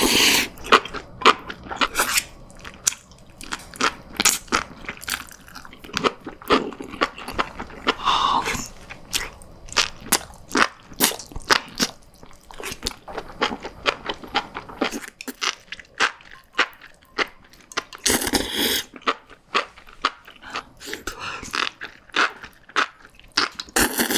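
Close-miked chewing of spicy enoki mushrooms: a dense run of crisp, wet crunches and clicks, several a second, with a few longer, louder bursts of biting or slurping at the start, about eight seconds in and about eighteen seconds in.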